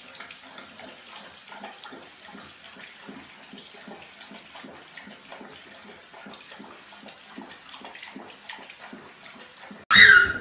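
Water sloshing and splashing, a fast string of small splashes over a steady wash. Just before the end comes a sudden, brief, loud sound.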